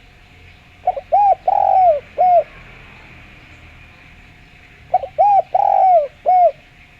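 Spotted dove (derkuku) cooing in two phrases, each a short note followed by four arched coos, the phrases about four seconds apart.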